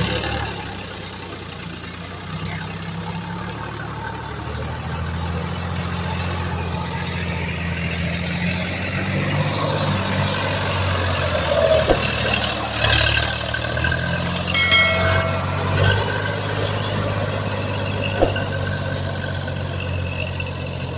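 Tractor diesel engine running steadily, with a few brief louder sounds partway through.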